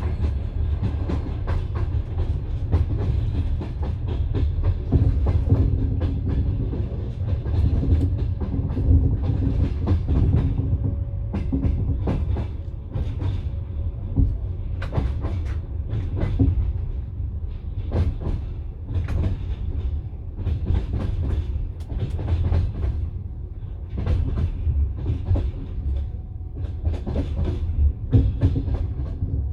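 Passenger train carriage in motion heard from inside: a steady low rumble of the running gear with the clickety-clack of the wheels striking rail joints, the clacks coming in quick clusters, sharper in the second half.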